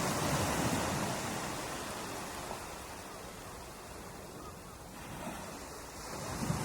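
Ocean waves surging on a beach: one wave's wash ebbs away over the first few seconds, and the next begins to build near the end.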